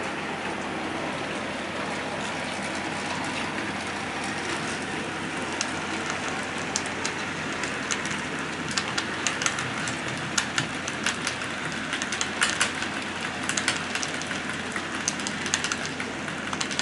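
Model train running on the track: a steady rolling hiss with sharp irregular clicks of wheels on the rails. The clicks start about five seconds in and come more often from about eight seconds on.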